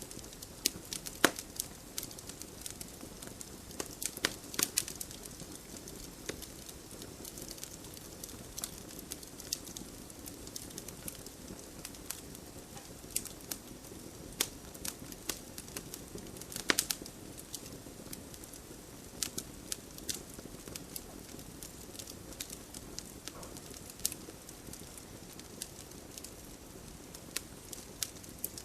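Wood campfire crackling, with frequent sharp pops and snaps over a steady low hiss of burning; a few louder pops come about a second in, around four to five seconds in, and near the middle.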